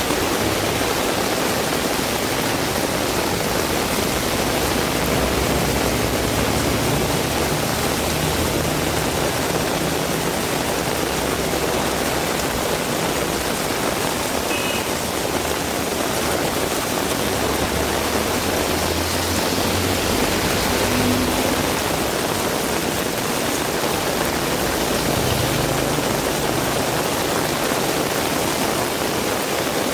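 Heavy rain pouring in a steady hiss, with a low rumble swelling up now and then.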